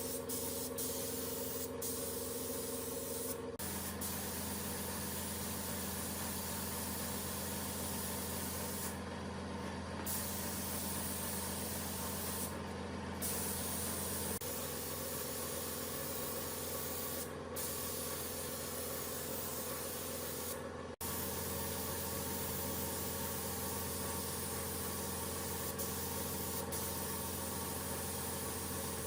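Steady machine noise, a hiss over a low hum with a few steady tones, whose pitch and mix shift abruptly a few times; the high hiss drops out briefly now and then.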